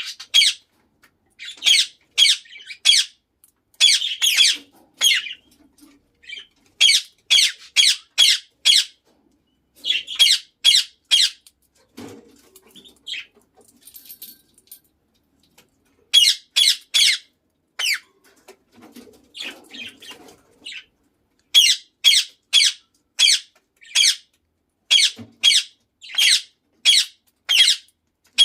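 Indian ringneck parakeet giving short, shrill squawks in quick runs of three to five, about three a second, with short pauses between runs.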